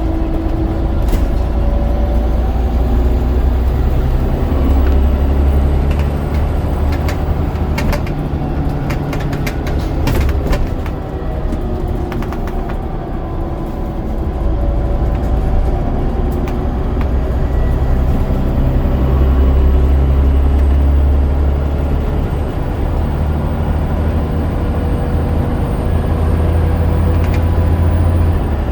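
Scania DC9 9.0-litre diesel engine of a Scania N94UD double-decker bus running under way through its ZF Ecomat automatic gearbox. The deep engine drone rises and falls in strength several times as load and gears change, with light clicks and rattles in the first half.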